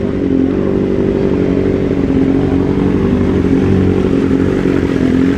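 Sport motorcycle engine running loud at a nearly steady pitch, without a clear rev rise.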